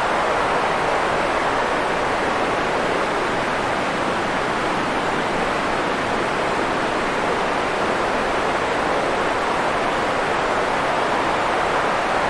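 Steady white noise: an even, unchanging hiss, fuller in the middle and soft in the treble, with no rhythm or breaks.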